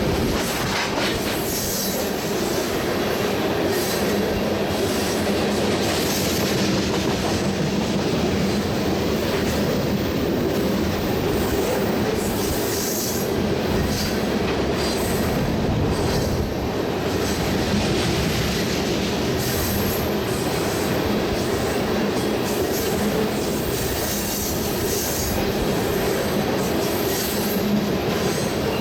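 Loaded crude-oil tank cars of a long freight train rolling past, a steady rumble of steel wheels on rail, with high wheel squeal coming and going.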